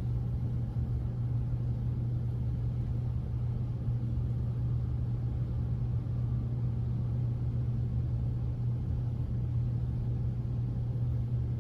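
A steady low hum that runs unchanged throughout.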